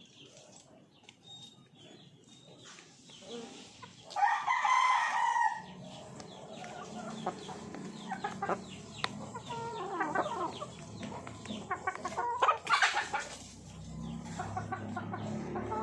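Chickens clucking, with a loud, longer call about four seconds in that fits a rooster crowing, and another loud call near the end.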